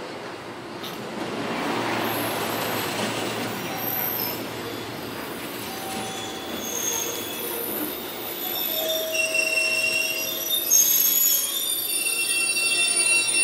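205 series 3100-subseries electric train pulling in and slowing: a rolling rush as it approaches, then several steady high-pitched squeals from the wheels and brakes that grow louder and more numerous in the second half.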